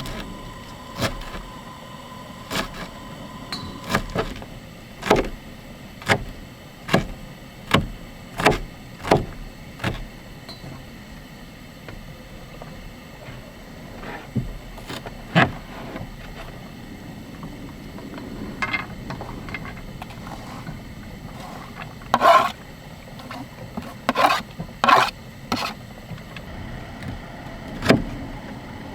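A series of short, sharp knocks and clicks, about one a second at first, then scattered, with a louder cluster near the end, over a steady low background rumble.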